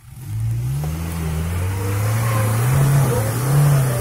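Off-road 4x4's engine revving up about a third of a second in, then held at high revs with its pitch wavering, as it makes another attempt to climb a mound.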